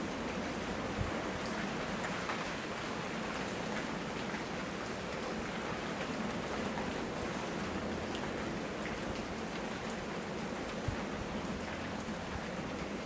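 Steady tropical rain falling and pattering on surfaces, with two soft low thumps, about a second in and near the end.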